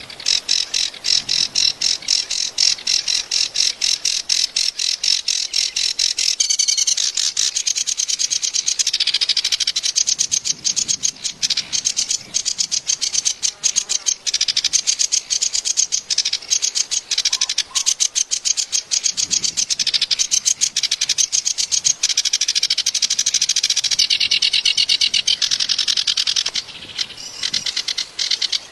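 Kerak basi (reed warbler) singing a long, continuous song of very rapidly repeated high chattering notes. The phrase changes a few times.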